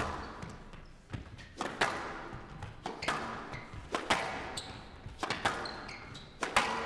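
Squash ball being struck by rackets and smacking into the court walls during a rally: a string of sharp smacks about every half second to a second, each echoing briefly in a large hall.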